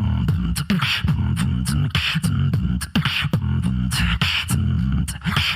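Solo beatboxer performing live: a sustained, pitched vocal bass line under sharp mouth clicks, with a noisy snare hit about once a second.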